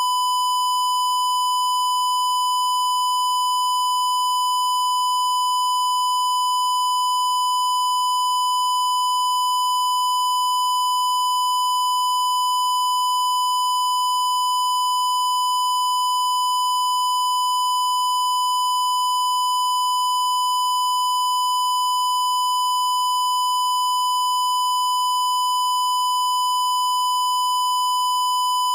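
A continuous electronic tone at about 1 kHz, held at one pitch without a break, with a harsh, buzzy edge from its overtones.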